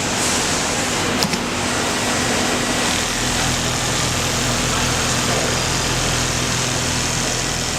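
Industrial automatic pattern sewing machine running with a steady mechanical hum, a click about a second in, and a deeper hum joining about three seconds in.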